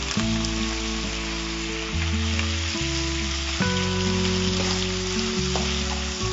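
Chicken pieces, shallots and dried red chillies sizzling steadily as they fry in oil in a nonstick pan, with fresh curry leaves just added, stirred with a metal slotted spatula. Under the sizzle runs background music of held notes that change every second or so.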